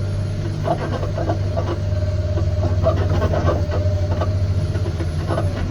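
Cat 725C articulated haul truck's diesel engine running steadily, heard from inside the cab: a constant low hum with a steady whine above it, and frequent rattles and knocks from the empty truck.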